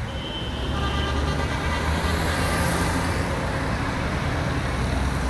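BMW 7 Series saloon's engine running as the car drives toward the camera: a steady low drone, with a few faint high tones that fade out about halfway through.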